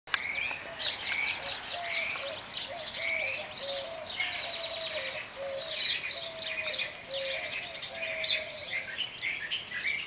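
Several backyard birds chirping and singing at once, quick high calls and trills overlapping, with a lower note repeated about twice a second until near the end.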